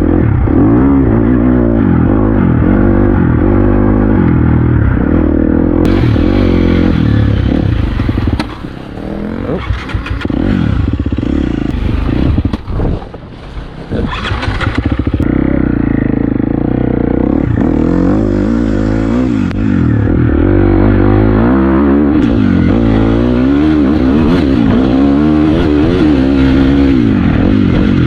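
Dirt bike engine running under varying throttle, revving up and down as it rides. The throttle drops off briefly twice in the middle, then the engine picks back up.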